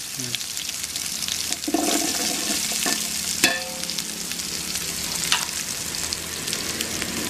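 Chopped shallots sizzling as they fry in oil in a large aluminium pot, with curry leaves going into the hot oil and a metal slotted spoon stirring. A single sharp knock about halfway through.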